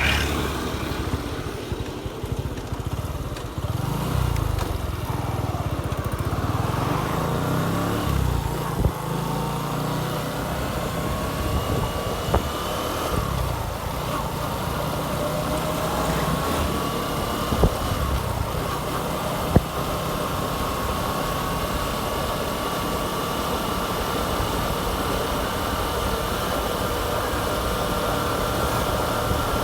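Motorcycle engine running on the move. Its pitch wanders with the throttle and then climbs slowly and steadily through the second half, over a low rumble. A few brief knocks stand out, the sharpest about twenty seconds in.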